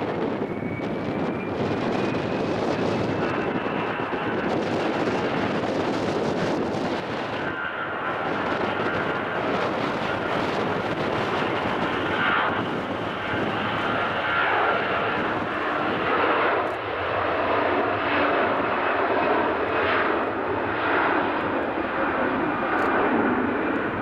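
Airbus A321 jet engines running loud, with a thin whine that rises over the first few seconds, then a steady roar. Wind buffets the microphone throughout.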